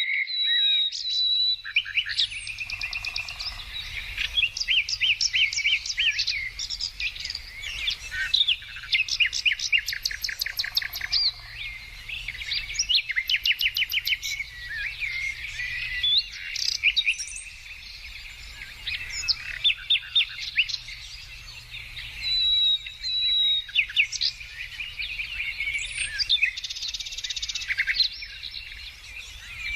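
Several songbirds singing at once: rapid trills and chirps overlapping almost without pause, with a few clear whistled notes. A faint steady low hum runs underneath.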